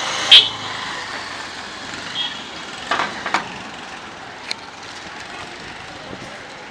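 Busy street ambience with steady traffic noise. A short, very loud sharp sound comes about a third of a second in, followed by a few knocks around three seconds and one more a little later.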